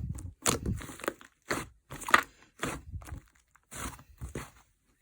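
White slime being pressed and squished by hand, giving short crackling, popping squishes as trapped air bursts, about two a second.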